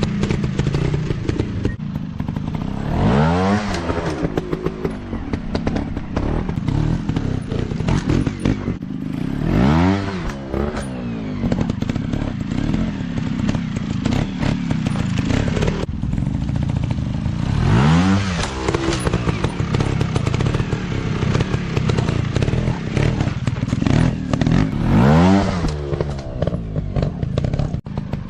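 Off-road motorcycle engine running with its revs sweeping up and dropping back four times, about every seven seconds, over a steady clattering engine note.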